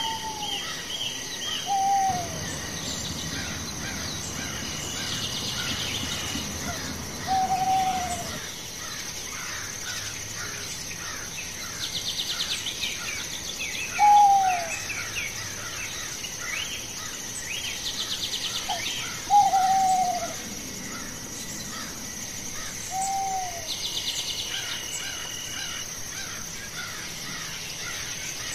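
A bird calling in single short notes that slide downward, repeated every few seconds, over a steady high insect drone with bursts of chirring insects. A low rumble runs underneath for several seconds early in the stretch.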